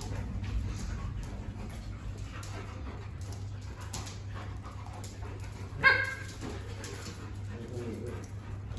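A dog gives one short, sharp bark about six seconds in, the loudest sound here, followed by a fainter whine near the end, over a steady low hum.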